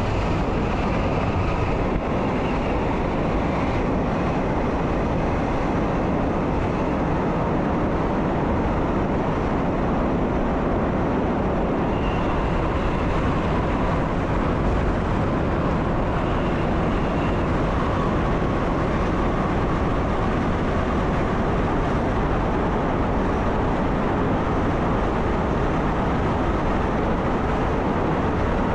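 Croatian Railways train running steadily, heard from inside the driver's cab: an even rumble and rolling noise with no distinct rail joints, and a faint high whine that comes and goes a couple of times.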